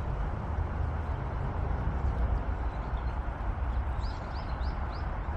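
A small bird chirps four times in quick succession in the last second and a half. Under it runs a steady outdoor rushing noise with a low, fluctuating rumble.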